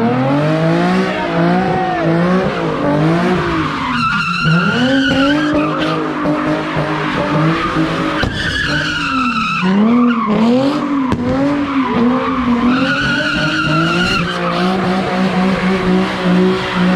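A car spinning donuts: its engine revs up and down over and over while the tires squeal in three long stretches.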